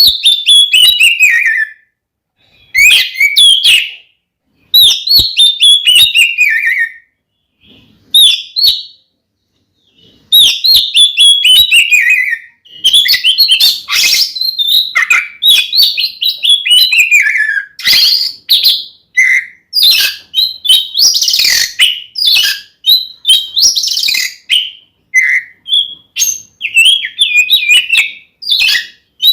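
Oriental magpie-robin (kacer) singing its loud fighting song. Phrases of rapid notes slide down from high to lower pitch, with short pauses between them at first, then run into nearly continuous song about ten seconds in.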